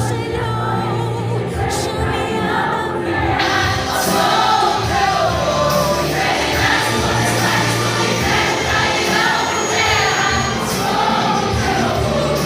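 A Christian hymn sung by a choir over instrumental accompaniment with steady bass notes, the sound growing fuller about three and a half seconds in.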